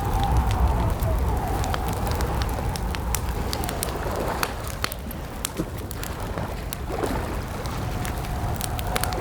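Campfire crackling, with frequent sharp pops over a low steady rumble of burning wood. A faint, wavering high tone runs underneath, dropping out about a third of the way in and coming back near the end.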